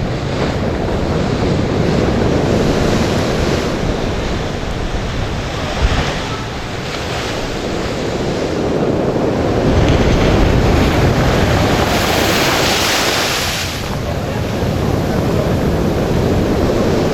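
Heavy sea surf at high tide, waves breaking and washing continuously, with strong wind buffeting the microphone. A louder, hissing surge of breaking water comes about ten to fourteen seconds in, and there is a single brief knock about six seconds in.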